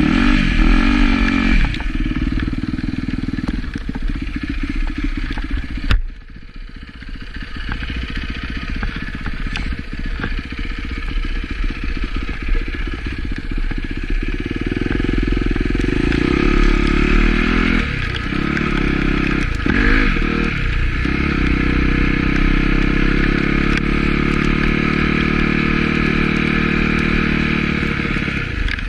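Yamaha YZ250F dirt bike engine running under throttle, its revs rising and falling. About six seconds in there is a sharp knock, after which the engine runs quieter for a few seconds before building back up. Through the second half it holds steady high revs, with a couple of brief dips.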